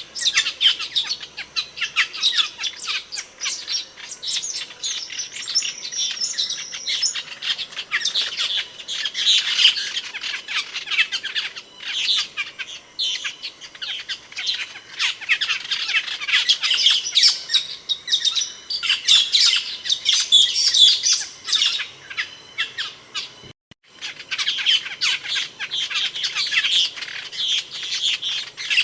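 Asian glossy starling (Aplonis panayensis) giving a dense, continuous stream of sharp, high chirps and squawks. The calls break off for a split second about two-thirds of the way through.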